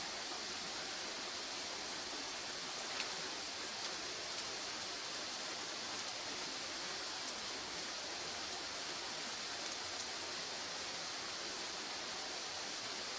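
Firewood burning, a few sharp crackling pops over a steady hiss, the loudest pop about three seconds in.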